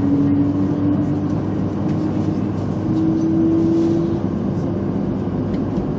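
Running noise of a 200 series Shinkansen train heard inside the passenger car as it pulls out and gathers speed. A steady motor whine rises in pitch about three seconds in, then fades.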